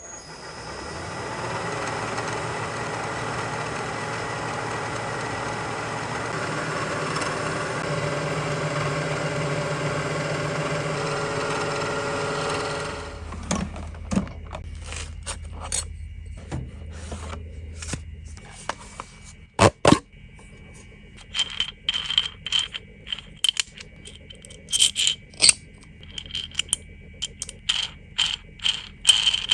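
A metalworking machine tool running steadily for about thirteen seconds, then shutting down. After that come scattered metallic clinks, taps and scrapes of steel parts and tools being handled.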